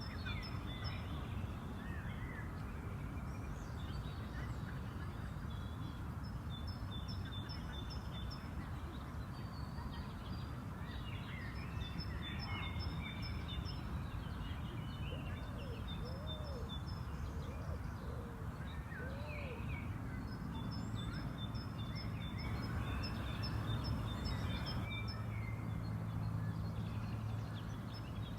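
Several birds singing and chirping over a steady low background rumble, with a rapid, evenly pulsed high trill that comes back again and again. A few lower, arched calls sound in the middle, and a steady low hum joins about two-thirds of the way through.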